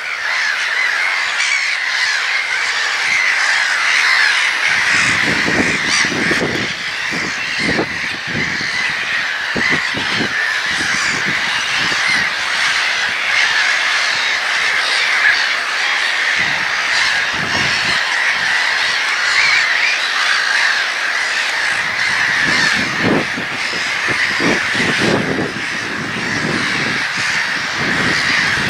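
A flock of gulls calling continuously, many overlapping cries at once.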